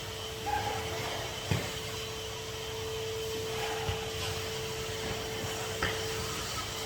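Henry HVR200 620 W vacuum cleaner running with a steady whine, with a few light knocks about a second and a half in and near the end.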